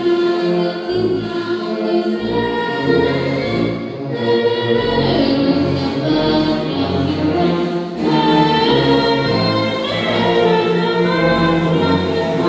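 A choir singing with orchestral backing: many voices holding sustained notes that change every second or so.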